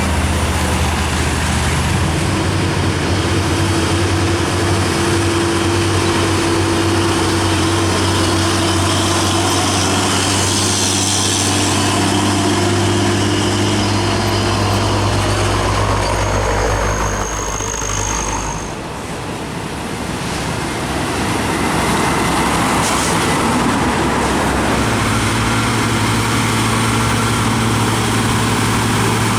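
Heavy diesel trucks passing on a road, their engines running with a steady low note. The sound eases briefly about two-thirds of the way through as one vehicle goes by, then another truck's engine note comes in near the end.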